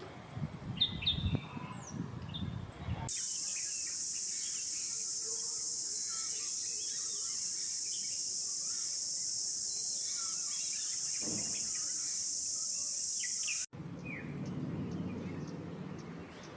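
A steady, high-pitched insect drone starts suddenly about three seconds in and cuts off abruptly near the end. Scattered short bird chirps sound throughout.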